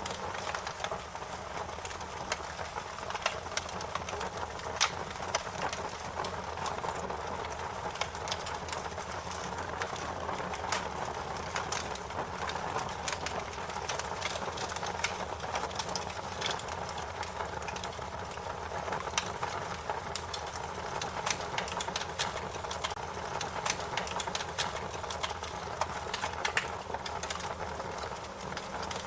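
Wood fire crackling: frequent, irregular sharp pops and snaps over a steady hiss.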